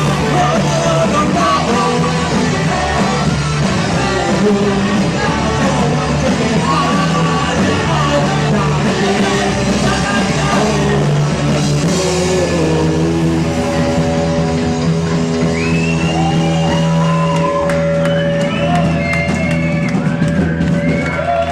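Live rock band playing with a singer, heard through a room's reverberation. About twelve seconds in the playing settles into long held chords under the sung line.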